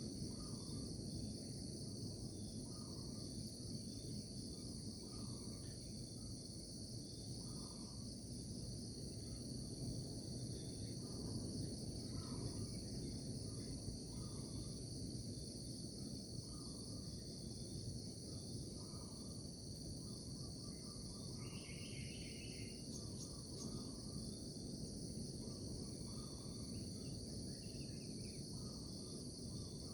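Nature ambience of insects trilling steadily and high, such as crickets, over a low even rumble. Short soft calls repeat about once a second, and a brief higher call comes about two-thirds of the way through.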